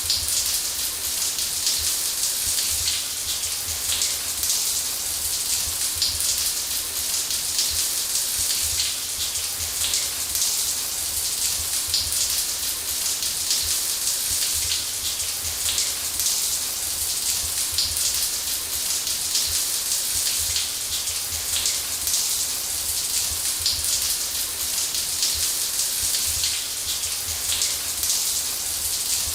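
Running shower spray, water pattering steadily on a hard surface: an even hiss with fine droplet ticks and a low drumming underneath.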